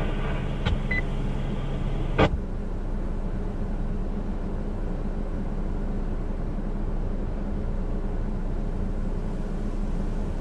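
Radio receiver hiss with a low electrical hum between transmissions. A sharp click comes about two seconds in, and one hum tone stops with it, like a transmission carrier dropping.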